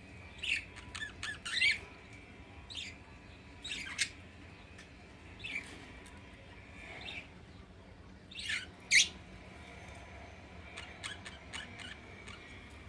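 A pet cockatiel and budgie giving short, scattered squawks and chirps at irregular intervals, the loudest about two-thirds of the way through.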